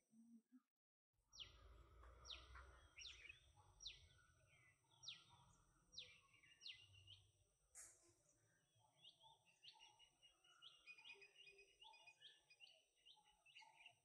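Faint bird calls: after a brief gap about a second in, a string of about eight quick downward-sweeping notes, then a faster run of high chirping notes in the second half, over a thin steady high tone.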